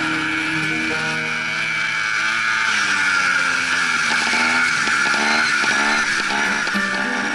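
Trials motorcycle engine running and revving up and down over and over as the bike rides across rough grass.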